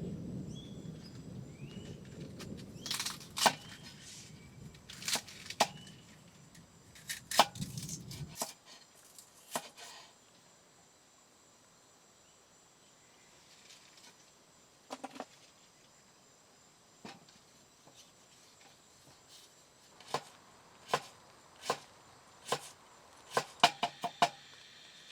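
Irregular sharp knocks and taps, a few at a time, with a low rumble under the first eight seconds that stops abruptly; a quick run of knocks comes near the end.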